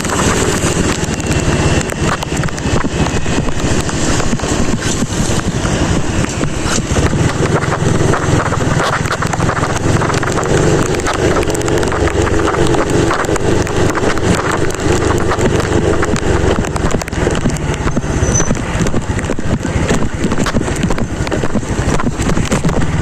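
Wind rushing over the microphone of a moving motorcycle, mixed with the steady low sound of the bike and road, with many small ticks of rain hitting the mic.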